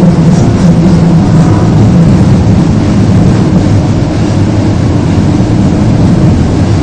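Osaka Metro Tanimachi Line subway train running between stations, heard from inside the car: a loud, steady rumble with a low hum from the motors.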